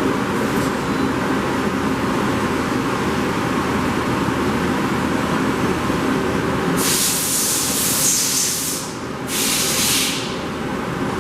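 Okuma CNC machine running with a steady hum, broken by two bursts of hissing, the first about two seconds long starting about seven seconds in, the second about a second long shortly after.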